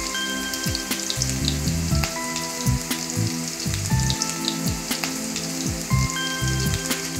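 Sliced onions and green chillies sizzling in hot oil in a kadai, with a steady hiss and scattered small pops.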